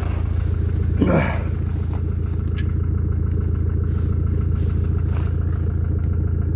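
Mercedes OM651 four-cylinder diesel idling with a steady knock, which the owner says is the same cold or hot. A brief sound falling in pitch comes about a second in.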